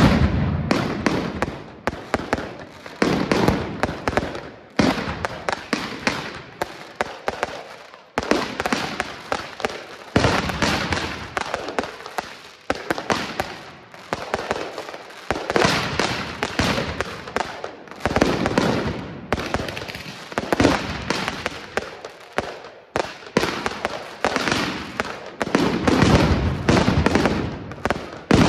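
Fireworks display going off in rapid succession: a loud bang every second or two, with dense crackling and echoing reports in between.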